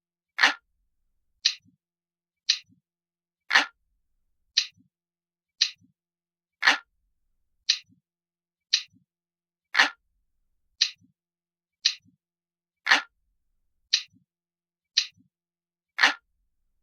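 Ticking clock sound effect, steady at about one tick a second; every third tick is louder and deeper than the two lighter, higher ticks between.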